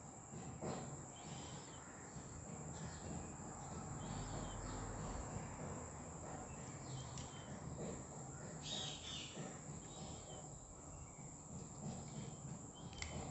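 Faint background birdsong, short chirps every second or so, over a steady high-pitched drone and a low hum.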